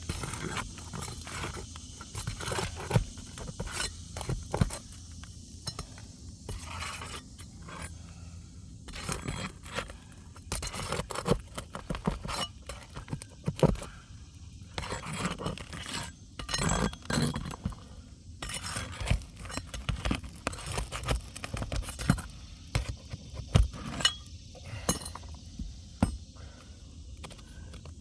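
Steel roofing hatchet worked under asphalt shingles, with irregular scraping and sharp clinks as the shingle seals are broken and the shingle is pried loose.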